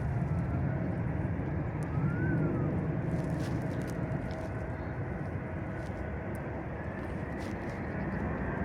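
Airbus A320-214's CFM56 jet engines running, a steady rumble with faint whining tones over it.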